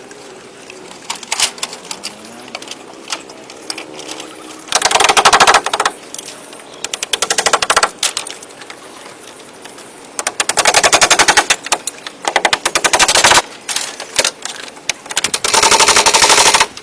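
A power tool working wood in about five short bursts of rapid mechanical rattling, each lasting about a second, with scattered single clicks and knocks between them.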